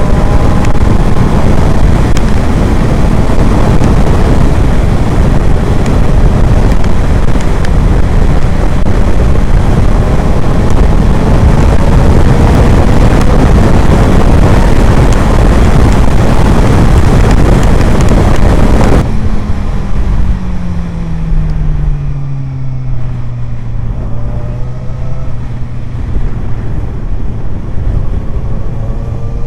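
Suzuki GSR 750 inline-four with an Ixrace Z7 aftermarket exhaust, ridden at speed under heavy wind noise on the microphone. About two-thirds of the way in the wind drops away suddenly and the engine note falls as the bike slows, settling to a low steady drone. The engine starts to rise again near the end.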